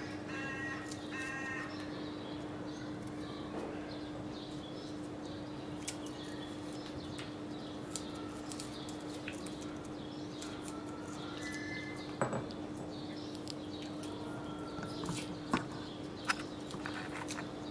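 A bird gives harsh, crow-like caws twice near the start, over a steady low hum, with scattered small clicks and taps through the rest.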